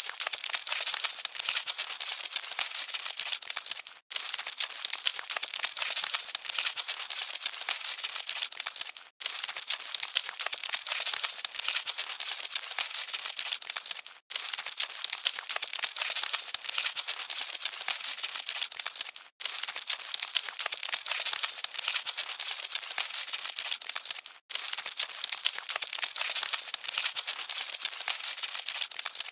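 Dense, fine crackling rustle of cockroaches scuttling. It plays as a loop of about five seconds, with a brief silent break between each repeat.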